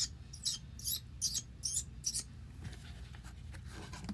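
A man imitating baby chicks with his mouth: about six short, high, soft squeaky peeps, roughly two a second, that stop about halfway through.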